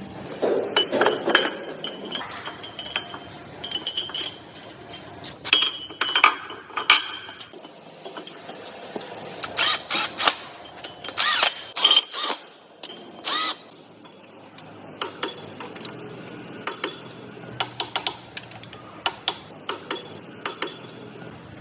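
Metal parts and hand tools being handled during engine assembly: an irregular run of sharp clicks, clinks and knocks, some ringing briefly, busiest in the middle.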